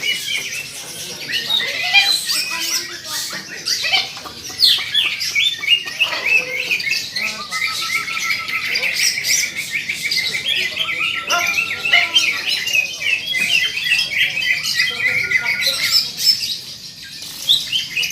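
Several caged green leafbirds (cucak ijo) singing at once: dense, overlapping runs of quick, high chirping and squawky notes that never stop.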